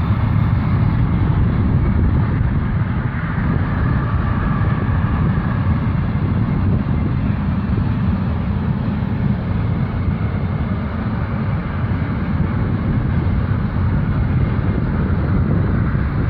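A train passing close by: a steady rumble of wheels rolling on the rails, with wind buffeting the microphone.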